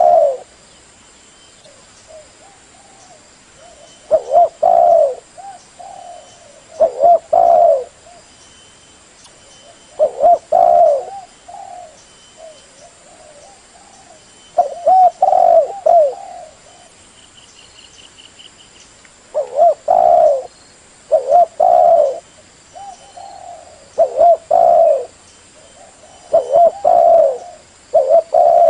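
Dove cooing: short phrases of a few low, mellow coos, repeated every two to four seconds.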